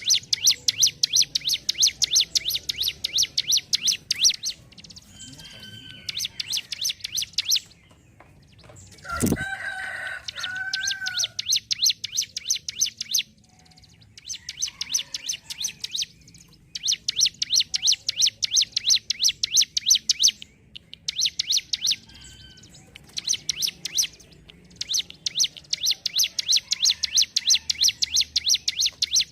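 A ciblek gunung (mountain prinia) singing its rapid ticking song: long runs of fast, evenly repeated high notes lasting a few seconds each, broken by short pauses. About nine seconds in, a sharp knock and a lower, louder two-part call from another bird cut in.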